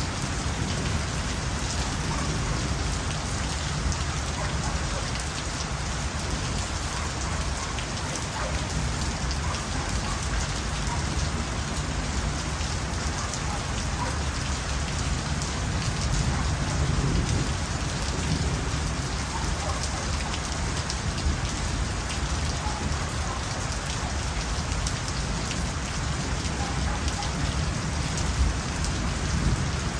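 Steady rain falling, an even hiss with dense patter of drops.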